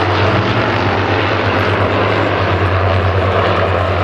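Avro Lancaster bomber flying past, its four Rolls-Royce Merlin piston engines making a loud, steady propeller drone.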